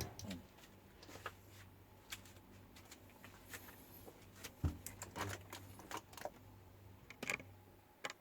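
Faint scattered clicks and light taps, such as small objects being handled, over a low steady hum.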